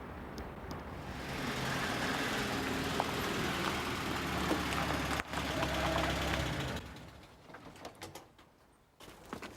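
Post bus engine running steadily as the van drives along, then fading away about seven seconds in.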